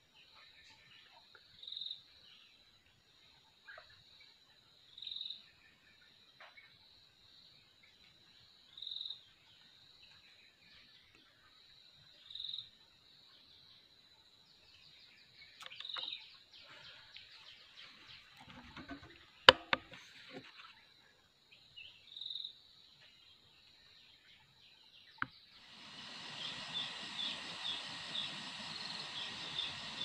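A bird calling a short high note over and over, about every three and a half seconds, over a faint steady insect buzz. About two-thirds of the way through there is a single very sharp, loud click, the loudest sound here, and near the end a dense chorus of rapid chirping starts up.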